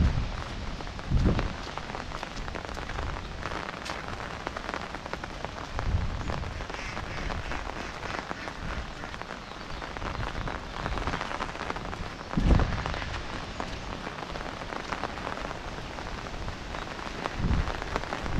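Steady rain falling on the ground and vegetation, an even hiss. A few brief low rumbles swell up now and then, the loudest near the start and again past the middle.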